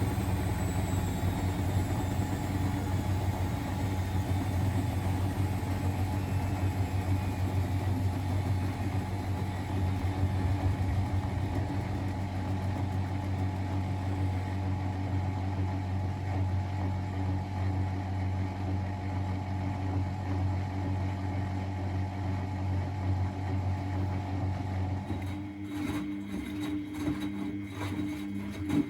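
Miele Novotronic W921 washing machine running with a steady mechanical hum. About 25 seconds in the sound changes: the broad running noise drops away, leaving a hum with a steady higher tone and rapid clicking.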